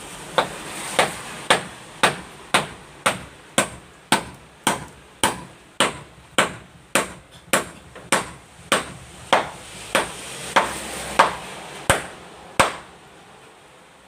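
Hammer striking wood in a steady rhythm, about two blows a second, some twenty strikes that stop near the end.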